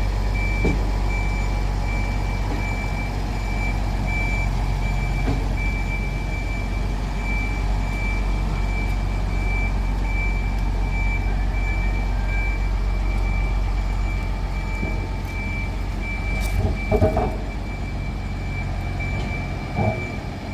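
A high-pitched warning beeper sounds at an even pace over the steady low hum of a vehicle running slowly, with a couple of clunks near the end.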